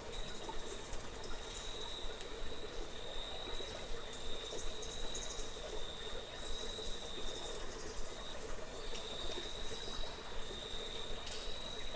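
An insect's steady, high-pitched trill on a single note, breaking off briefly a little past the middle, over a steady background hiss.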